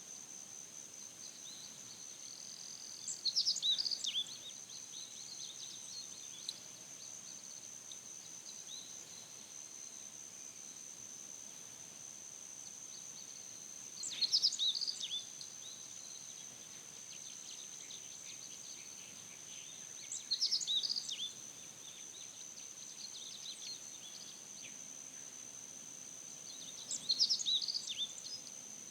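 A bird singing a short, quick chirping phrase four times over a steady, high-pitched insect drone.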